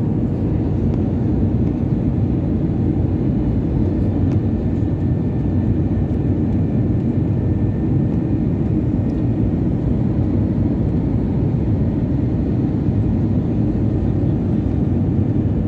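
Steady low rumble of a jet airliner's engines and rushing air, unchanging throughout, with a faint steady hum on top.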